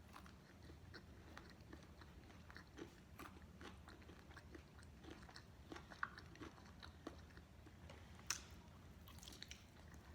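Faint chewing and crunching of fried chicken close to the microphone, a scatter of soft irregular clicks and crackles, a little louder about six and eight seconds in.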